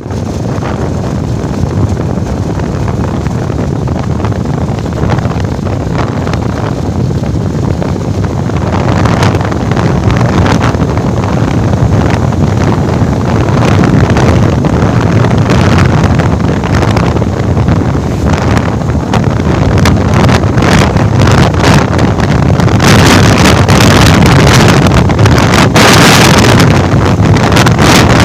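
Bajaj Pulsar 220F's single-cylinder engine running on the move, with heavy wind buffeting on the microphone that grows stronger about a third of the way in and is loudest near the end as the bike picks up speed.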